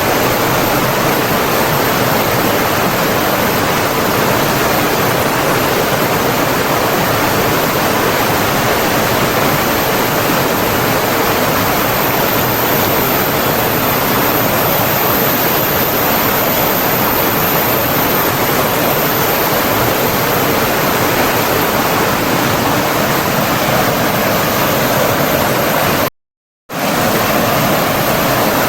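Rushing water of a stream or waterfall, a steady, even flow. About two seconds before the end the sound cuts out completely for about half a second, then carries on unchanged.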